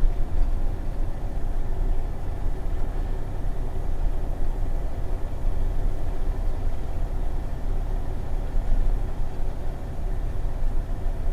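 20-foot box truck driving slowly: a steady low rumble of engine and road noise.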